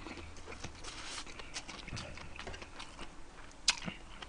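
A person quietly chewing a mouthful of bibimbap with the mouth closed, with soft mouth clicks and one sharper click near the end.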